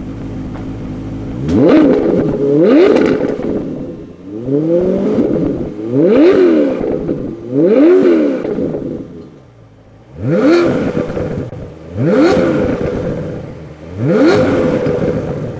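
Maserati Quattroporte engine and exhaust idling, then revved in eight short blips, each rising sharply in pitch and falling back, with a pause of about two seconds before the last three.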